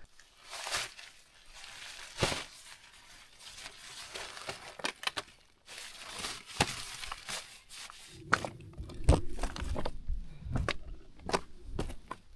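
A rain tarp being unpacked and pulled on: irregular rustling and crinkling with scattered sharp clicks, then a few low thumps from about eight seconds in.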